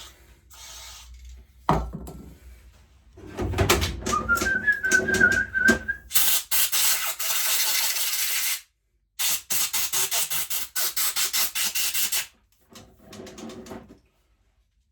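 A man whistles a few notes while handling carburettor parts with light clicks. Then come two long loud hisses of spray, the second in quick pulses, as the dirty, blocked carburettor is blasted clean.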